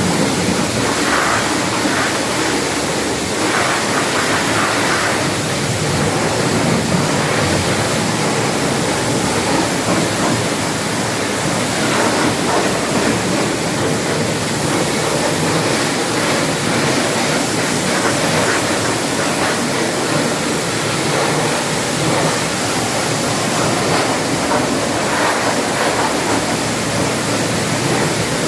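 High-pressure washer jet spraying water steadily, rinsing cleaning solution off a car's engine bay.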